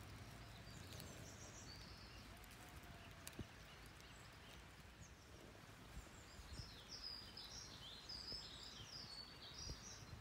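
Faint woodland ambience with a small bird singing high, quick chirping phrases: briefly about a second in, then more steadily through the second half.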